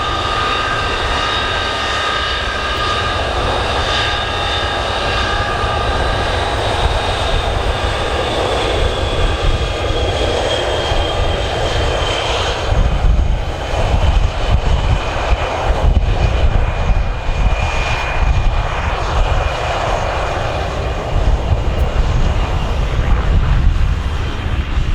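Avro Vulcan's four Rolls-Royce Olympus turbojets running: a high multi-tone whine that slowly falls in pitch over a heavy low rumble. From about halfway on the rumble grows rougher and gustier.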